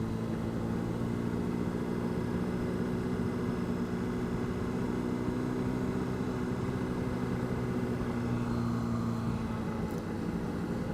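2009 Honda CBR600RR's inline-four engine running steadily as the motorcycle is ridden, with a constant rush of wind noise at the helmet mic.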